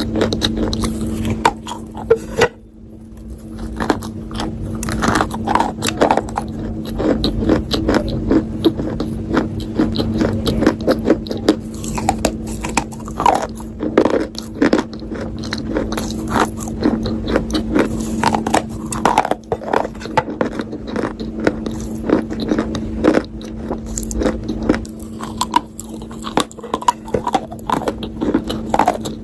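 Close-miked ASMR biting and chewing of something hard and crunchy, a dense run of sharp crunches with a short pause about two and a half seconds in. A steady low hum runs underneath.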